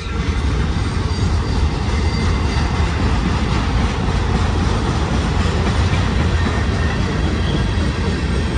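Union Pacific manifest freight train rolling past, a steady rumble of the cars' wheels on the rails.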